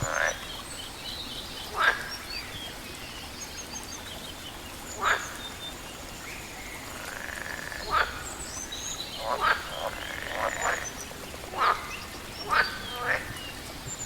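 Frogs croaking in short, loud, irregularly spaced calls, about nine of them, some rattling with quick pulses. Small birds chirp faintly and high-pitched over a steady background hiss.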